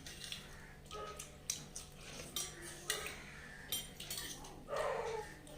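Dishes and cutlery clinking and knocking several times during a meal: short sharp clinks with a brief metallic ring.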